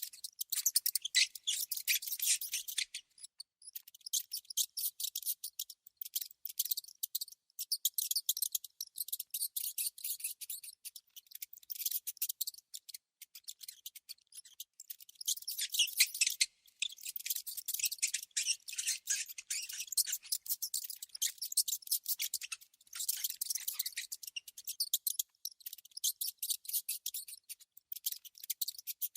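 Small rodent making rapid, high-pitched clicking chatter in bursts with short pauses.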